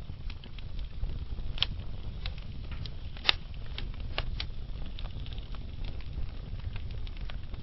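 Wood fire burning in a fireplace: scattered sharp crackles and pops over a steady low rumble, the loudest pop about three seconds in.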